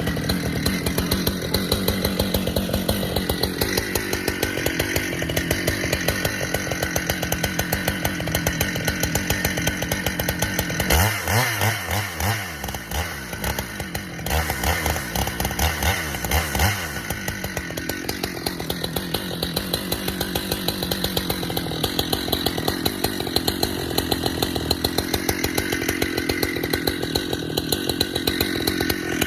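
Husqvarna chainsaw bucking red oak logs at high revs, the engine note sagging under load in the cut and picking back up several times. For several seconds around the middle the revs drop and rise unevenly before it goes back to full cutting speed.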